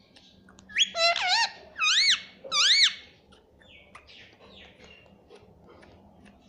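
Pet ring-necked parakeet giving a quick run of four or five loud, high calls that rise and fall in pitch, in the first three seconds, then a few soft chirps.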